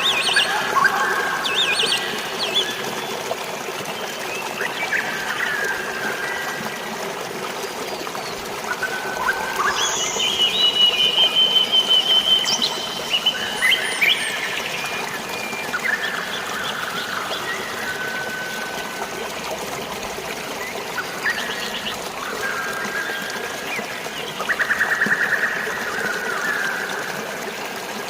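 Many birds calling, whistling and trilling over a steady wash of flowing, trickling water. The loudest is a long high trill about ten seconds in, with another trill near the end.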